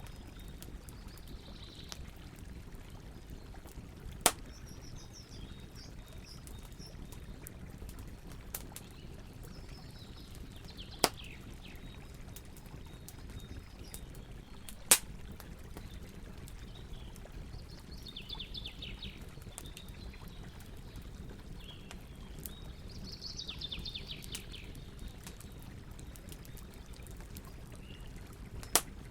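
Campfire burning with a steady low rush and four sharp, loud pops from the burning wood, while birds sing short descending trills several times.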